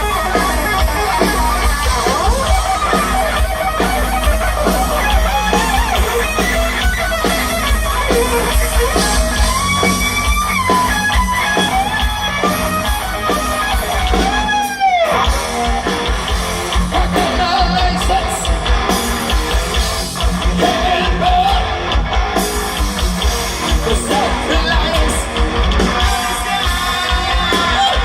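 Live heavy metal band playing loud, with distorted electric guitars, bass and pounding drums and a bending lead line on top. About halfway through, one sweep falls sharply in pitch, and the low end drops out for a moment.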